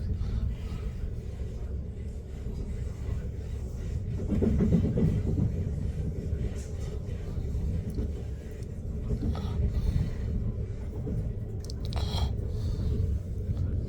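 Passenger train running, heard from inside the carriage: a steady low rumble with a faint steady hum, swelling slightly about four seconds in.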